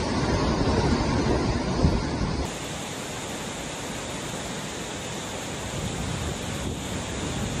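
Hurricane-force wind gusting, with the wind buffeting the microphone. About two and a half seconds in it cuts abruptly to a quieter, steadier rushing hiss of wind.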